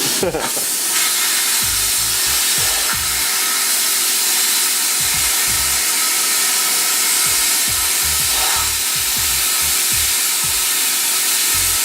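Plasma cutter cutting metal: a loud, steady hiss of the cutting arc and its air, running unbroken.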